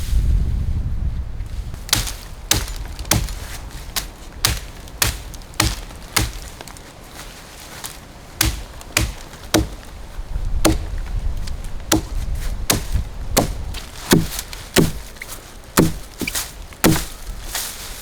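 Wood being chopped with an axe, a run of sharp blows about two a second with a short pause midway, probably firewood for the stove.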